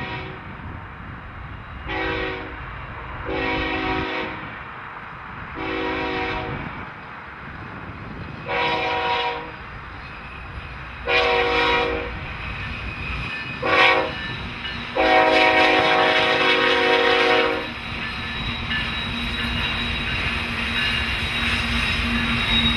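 Diesel freight locomotive's multi-chime air horn sounding about seven blasts, the later ones louder as the train approaches, the last and longest about two and a half seconds. After that the train's steady rumble and a low engine hum take over.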